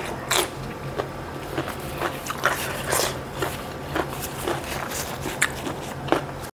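A person biting and chewing food close to a clip-on microphone: irregular crisp crunches and wet mouth clicks, over a faint steady low hum.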